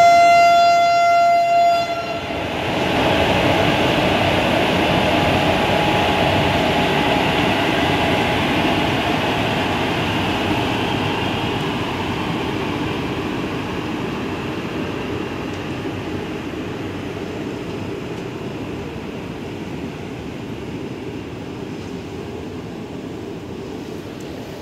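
An Indian Railways WAP-4 electric locomotive's horn sounds one steady note for about two seconds. Then the locomotive and its passenger coaches roll past with a steady rumble of wheels on rail, which slowly fades.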